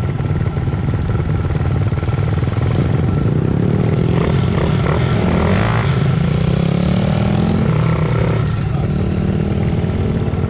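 Pit bike engines running, their pitch rising and falling between about four and eight seconds in as the bikes rev and accelerate.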